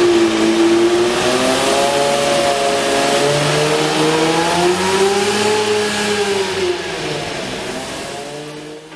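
Van engine running, its pitch rising and falling slowly as it revs, then fading away near the end.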